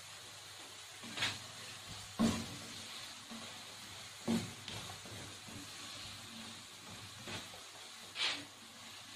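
Diced potatoes sizzling steadily as they fry in oil in a nonstick pan, with about five short knocks spread through.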